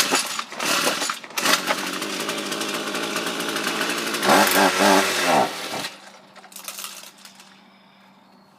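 Ryobi gas string trimmer engine catching on a pull-start during a cold start and running for a few seconds. About four seconds in its pitch falls, and it dies out by about six seconds in: the cold engine will not keep running.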